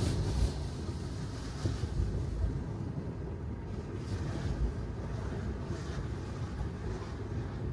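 Tesla Model 3 driving on wet city streets: steady low rumble of tyre and road noise, with no engine sound. A louder hiss fades out in the first half second.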